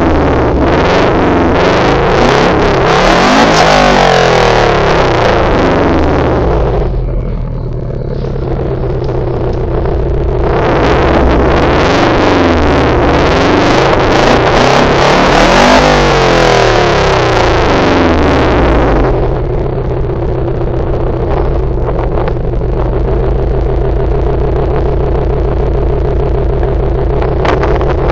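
Subaru Impreza WRX STI's turbocharged flat-four boxer engine revved up and down repeatedly through its exhaust. It eases off briefly about seven seconds in, revs again, and then settles to a steady idle for the last nine seconds or so.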